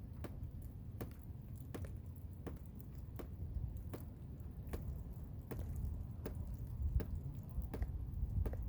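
Blizzard wind rumbling low and steady, with irregular sharp taps, about two or three a second, over it.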